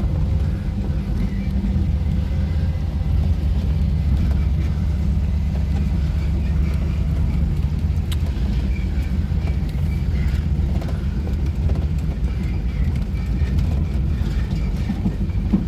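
1967 Ford Thunderbird's 390 V8 with a four-barrel Edelbrock carburettor running steadily as the car drives, a constant low rumble.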